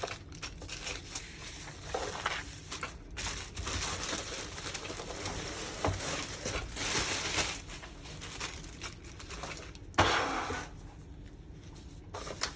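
Plastic packaging and diorama parts being handled, crinkling and rustling irregularly, with a couple of sharp plastic knocks, the loudest about ten seconds in.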